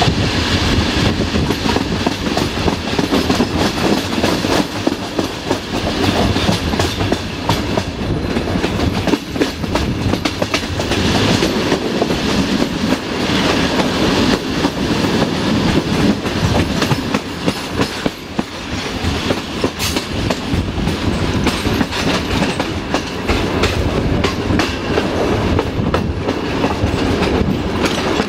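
Regio passenger train hauled by an LDH diesel-hydraulic locomotive running steadily, heard from a coach window: continuous rolling noise of the wheels on the rails with a frequent clickety-clack over rail joints.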